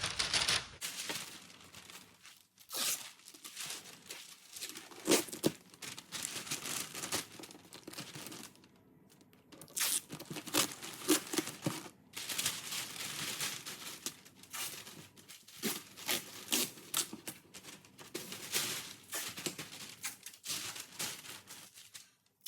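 Masking tape being pulled off the roll and torn, with crinkling as the masking is laid and pressed onto a car panel, in irregular bursts with a couple of short pauses.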